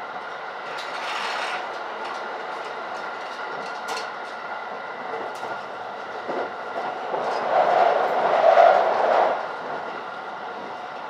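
Electric train running at speed, heard from inside the carriage: a steady rumble and rush with a few sharp clacks of the wheels. The noise grows louder for a couple of seconds about three quarters of the way through, then settles back.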